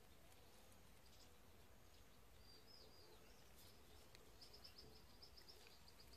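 Near silence with faint, distant bird chirps: a curving chirp about two and a half seconds in, then a quick run of short high notes, about eight a second, near the end.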